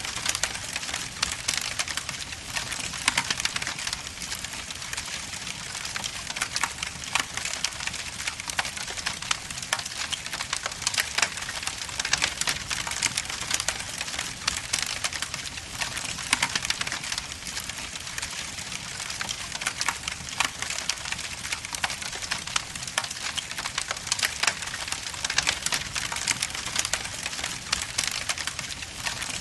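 Log fire burning in a fireplace, crackling steadily with many small sharp pops over a soft hiss.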